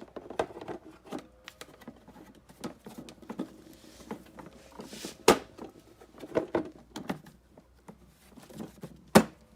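Plastic clicks and knocks as the lid and hose fittings of a Hoover SteamVac carpet cleaner are handled and snapped back into place. There are many light taps, with two sharp knocks, one about five seconds in and one near the end.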